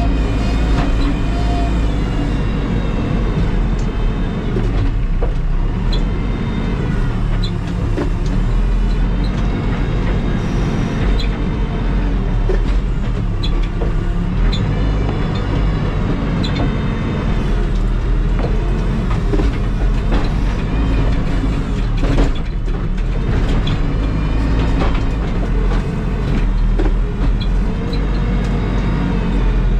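Terex TLB-815 backhoe loader's diesel engine running under work, its pitch rising and falling with the throttle, with a few sharp knocks.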